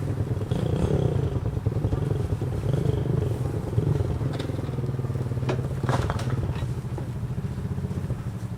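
A small engine running steadily at an even speed, with a few short knocks and clicks.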